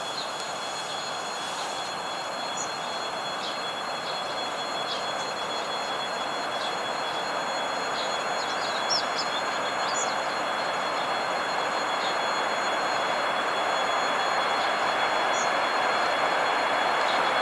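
Distant approaching passenger train hauled by a ChS2T electric locomotive: a steady rushing rumble that slowly grows louder, with a faint steady high tone over it.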